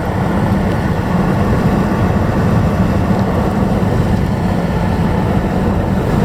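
Steady road noise inside a moving car: a low rumble of tyres and engine.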